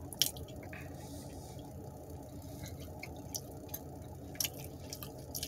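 Person chewing mozzarella string cheese, with scattered wet mouth clicks and smacks about every half second to second.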